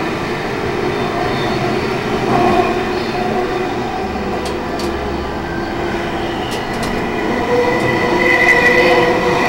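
Electric CityRail passenger train heard from inside the carriage while moving at speed: a steady rumble of wheels on rails, with a few sharp clicks from the track midway. A high steady squeal from the wheels grows louder near the end.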